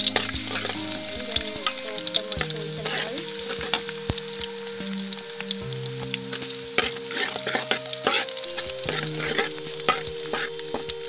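Minced garlic sizzling in hot oil in a metal wok, with a spatula stirring and scraping against the pan in frequent sharp clinks.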